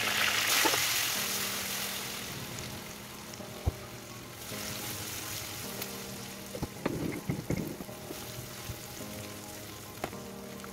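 Ground chili, shallot and garlic spice paste sizzling in hot oil in a non-stick wok, loudest just after it goes in and dying down over the first few seconds. About seven seconds in, a spatula stirs and scrapes the paste around the pan.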